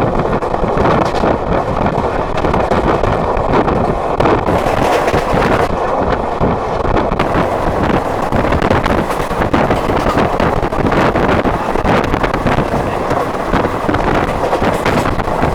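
Moving train running, a steady loud rumble and rush of noise, with wind buffeting the microphone.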